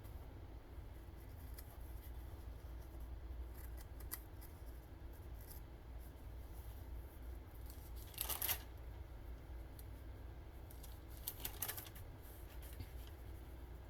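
Thin Bible pages being turned by hand: a few short rustles, the loudest about eight seconds in and again near the twelfth second, over a low steady hum.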